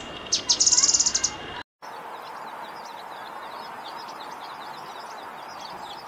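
Birdsong: a loud, rapid run of high, quick notes for about a second. After a short break, many faint, quick chirps go on over a steady background hiss.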